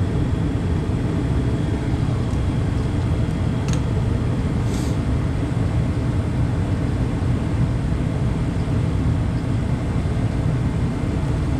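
Carrier gas furnace running with its burners lit, a steady low rumble from the firing burners, inducer draft motor and blower, heard right at the open unit.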